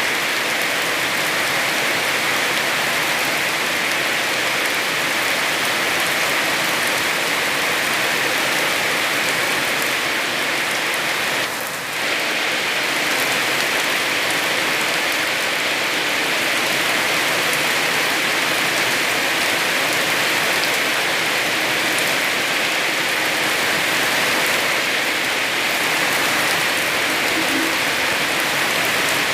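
Heavy rain falling steadily as a dense, even hiss, briefly dropping in level about twelve seconds in.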